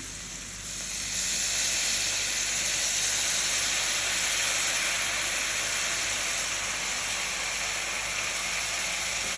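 Vegetables stir-frying in a hot pan, sizzling as dark soy sauce is poured in; the sizzle swells about a second in and then holds steady.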